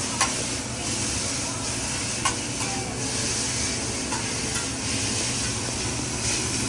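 Food sizzling on a hot hibachi griddle while a metal spatula stirs and scrapes it, with a few sharp metal taps of the spatula on the iron, the clearest near the start and about two seconds in.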